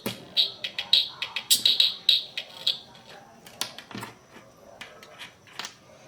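Toy electronic organ giving short high-pitched beeps, about two a second, with the click of each key press. The beeps stop near the middle, and a few scattered clicks follow.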